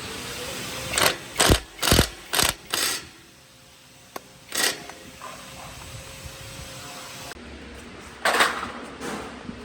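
Mechanical knocks and clatter: a quick run of about five sharp knocks roughly half a second apart, a couple of single knocks a little later, and a louder cluster near the end.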